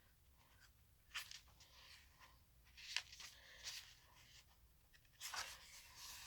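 Faint rustling and crinkling of paper being handled, in a few short bursts about a second in, around three seconds in, and after five seconds, over a quiet room.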